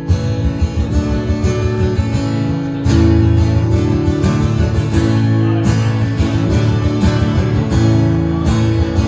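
Instrumental introduction of a song played live, led by strummed guitar, growing louder and fuller about three seconds in.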